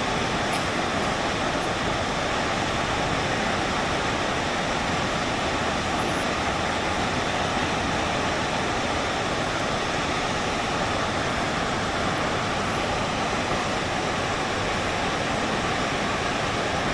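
Steady rushing roar of a large waterfall, even and unbroken.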